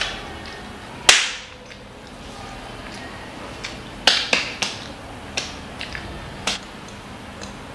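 Lip smacks and wet mouth clicks of a child chewing food with his mouth closed: one loud smack about a second in, then a quick run of smacks around four seconds in and a few more spaced out after.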